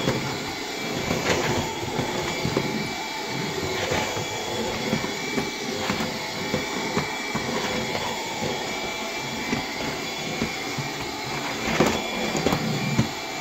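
Bissell PowerGlide cordless stick vacuum running steadily on low power on a hard floor, its motor a steady whine with a thin high tone. Short clicks and rattles come from debris and the floor head, with a few louder knocks near the end.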